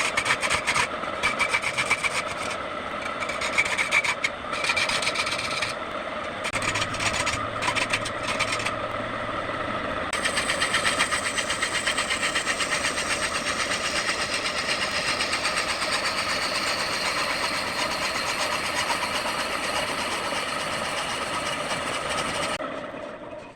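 Wood lathe running with a steady motor hum while a turning tool cuts the spinning wood in short, broken passes, then in one continuous pass from about ten seconds in. The sound cuts off suddenly near the end.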